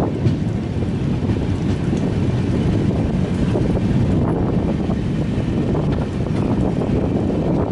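Express train running at speed: a steady, loud rumble of the coach's wheels on the track, with wind noise.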